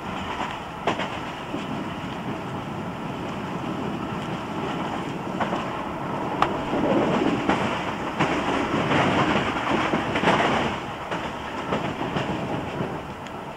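Interior ride noise of a British Rail slam-door electric multiple unit under way: wheels running on the track, with scattered sharp clicks over rail joints. The running noise grows louder and rougher for a few seconds in the middle. It is heard on an old cassette recording with the treble cut off.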